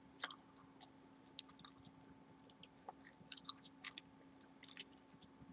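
Gum chewing close to the microphone: soft wet smacks and clicks in irregular clusters, busiest right at the start and again around three seconds in.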